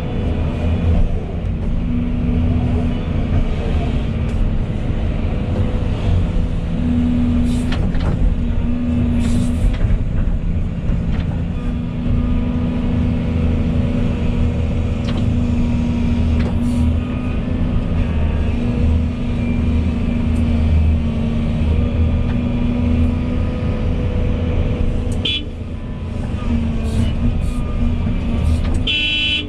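Volvo EC220E excavator's diesel engine running steadily while it digs, with a few short clicks and knocks along the way.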